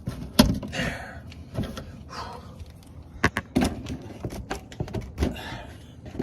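Scattered sharp clicks and knocks of hand tools and metal parts being handled during car repair work, about a dozen of them, the loudest about half a second in.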